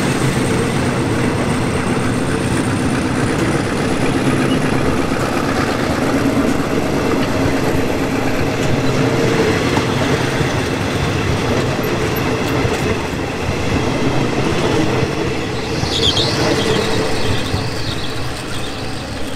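Passenger coaches of a departing train running past close by on the rails, with a brief high squeal about sixteen seconds in. The sound eases a little near the end as the last coach draws away.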